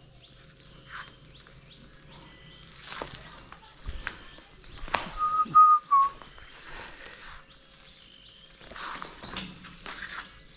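Birds chirping in quick, high trilled series. About halfway through comes a short, clear whistle, held on one note and dipping at its end; it is the loudest sound. A few sharp clicks are scattered through.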